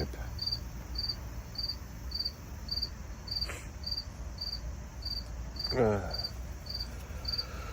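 A cricket chirping steadily, a bit under two short pulsed chirps a second. A brief falling vocal sound from a person comes about six seconds in.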